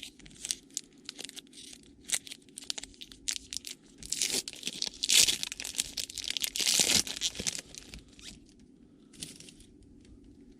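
A trading-card pack wrapper being torn open and crinkled. Scattered small rustles and clicks lead to a few seconds of loud tearing and crinkling near the middle, then quieter handling, over a faint steady low hum.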